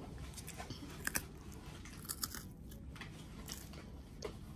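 A child chewing a crunchy animal-shaped biscuit, with a few sharp crunches.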